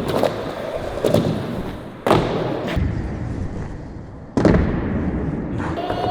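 Skateboard wheels rolling on flat ground, broken by several sharp clacks and thuds of the board hitting the ground, the loudest about four and a half seconds in: the tail pop and landing of a switch backside 360 kickflip attempt.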